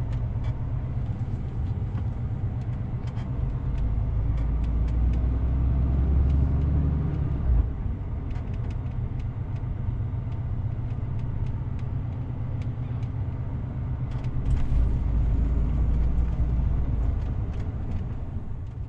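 DAF CF 450 truck driving: a steady low engine and road rumble that grows louder twice as the truck pulls harder, with scattered small clicks and rattles.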